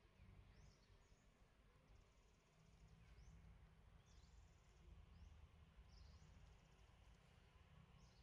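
Near silence with faint, high bird calls repeating every second or two: short downward-slurred whistles and brief buzzy trills.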